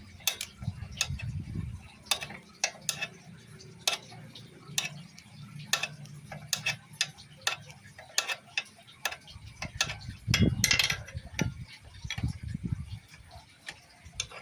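Irregular metallic clicks and taps, like hand tools and small parts being handled during motorcycle engine work, with a louder clatter about ten seconds in.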